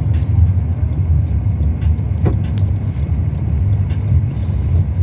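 Steady low rumble of a car driving, road and engine noise, with a brief short rising sound about two seconds in.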